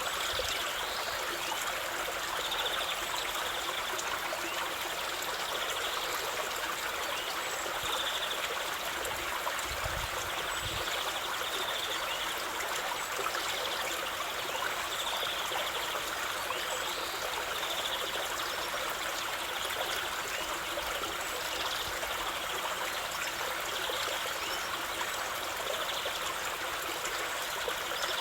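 Running water of a stream flowing steadily, with faint short high chirps every couple of seconds.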